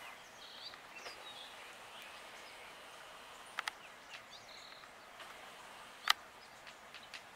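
Faint outdoor ambience with scattered short bird chirps, broken by a few sharp clicks: a quick double click at about three and a half seconds, then a single louder click at about six seconds.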